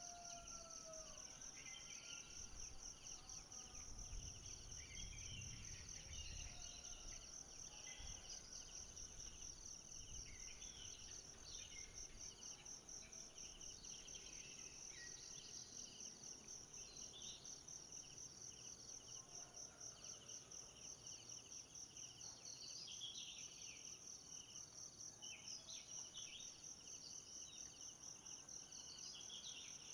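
Faint forest ambience: a steady, high, rapidly pulsing insect chorus of crickets or cicadas, with scattered short chirping calls.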